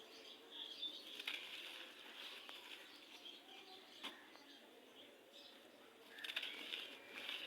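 Gritty red sand crumbling, with soft crackling and grainy crunches, a few sharp snaps and a denser run of crackles near the end.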